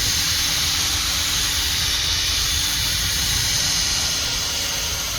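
Power drill spinning a 3000-grit sanding disc over a plastic headlight lens: a steady motor whir with the hiss of the abrasive on the plastic.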